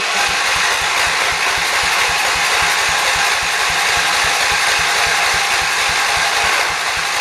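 John Deere 208 lawn tractor engine being cranked over by its starter, with a quick, even chugging of compression strokes under a loud whir. It does not yet fire: the fuel pump has only just begun delivering gas again after an air bubble in the line.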